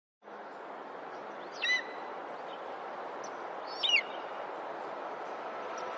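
A bird calling twice, short high chirps about two seconds apart, over a steady outdoor background hiss.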